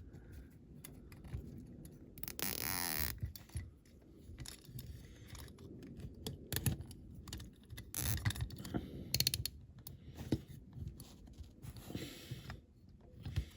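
A plastic cable tie being fed through and pulled tight around a small diecast toy van, with a short ratcheting zip about two seconds in amid light clicks and scrapes of handling.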